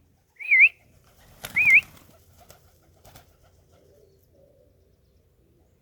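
A person whistles two short rising-and-falling notes, a keeper's feeding call to his homing pigeons, the second with a brief rustle. Pigeons coo softly in the latter half.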